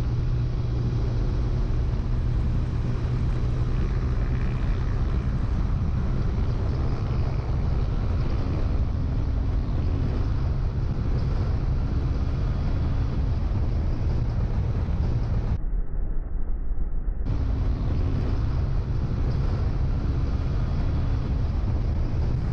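Motorcycle riding at speed, its engine running steadily under heavy wind rush on the camera microphone. About sixteen seconds in, the sound goes briefly muffled.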